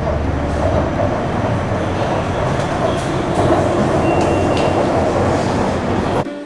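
Hefei Metro subway train running, a steady loud rumble and rush heard from inside the carriage. It cuts off suddenly near the end.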